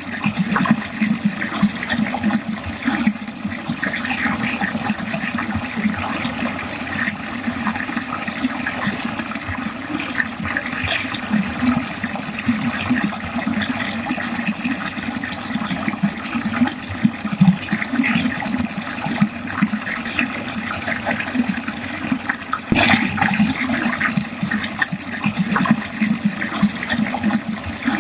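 Water running steadily down a drain, a continuous gurgling flow with small splashes and one brief sharper splash about two-thirds of the way through.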